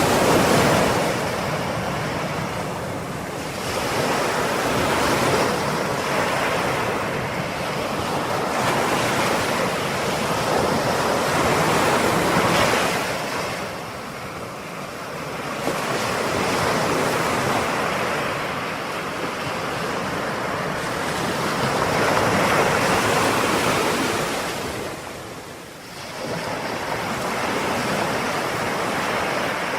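Ocean waves breaking and washing onto a shore, a continuous rush of surf that swells and falls back every few seconds, with a deeper lull about two-thirds of the way through and another near the end.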